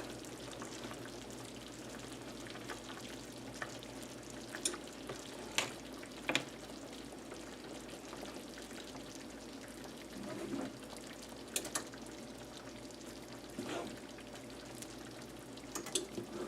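Salisbury steak patties simmering in thickening onion gravy in a pan, a steady low sizzle, with several sharp clinks of a utensil against the pan as the patties are turned.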